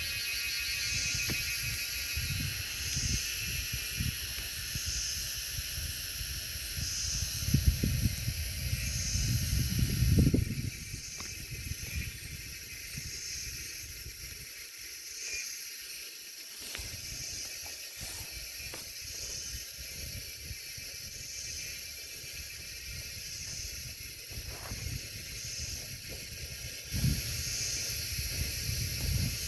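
Wind gusting against the microphone, rumbling strongly for the first ten seconds, then easing, and picking up again near the end. Over it a steady high buzz pulses about once a second.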